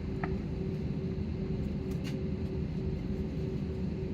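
Steady low rumble and a constant hum in the cabin of an Airbus A320 taxiing after landing, with a few faint clicks.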